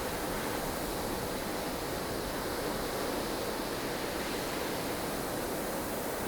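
Steady rushing wind of a blustery snowstorm, an even noise with no distinct gusts or other events.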